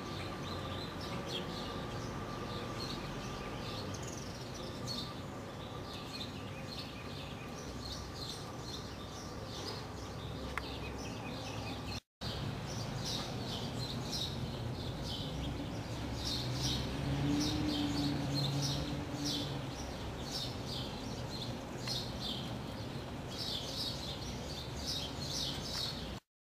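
Birds chirping over steady outdoor background noise, with many short high calls throughout. The sound drops out briefly about halfway through and cuts off suddenly just before the end.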